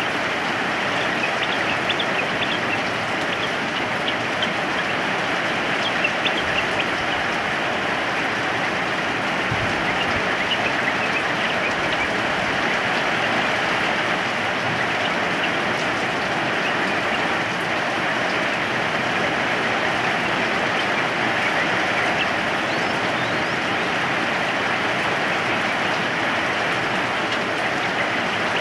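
Steady rain falling. Over it, a yellow-vented bulbul gives short, scattered chirping notes, frequent in the first half and sparse later.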